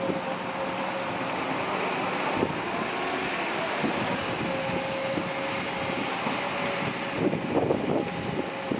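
Heavy diesel earthmoving machinery running steadily with a constant whine, and a few clunks near the end.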